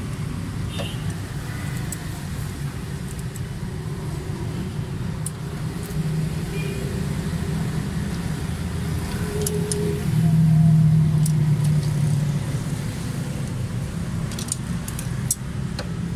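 Steady low hum of a motor vehicle engine running in the background, swelling louder for a couple of seconds about ten seconds in, with a few light metallic ticks on top.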